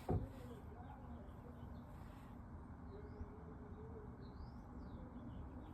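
Faint bird chirps: short, high calls and little rising and falling notes scattered through, with a light knock right at the start.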